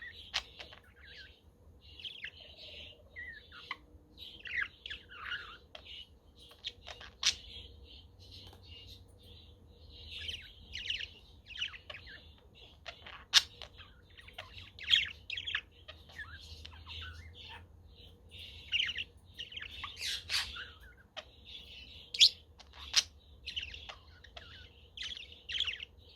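A flock of budgerigars chattering, with continuous warbling and chirping punctuated by several louder, sharp calls.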